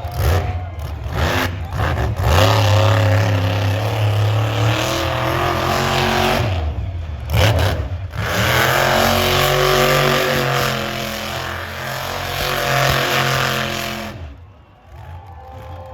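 Monster truck engine revving hard and loud in throttle bursts, pitch climbing and falling. It drops off briefly twice, a couple of seconds in and again around seven seconds, then falls away near the end.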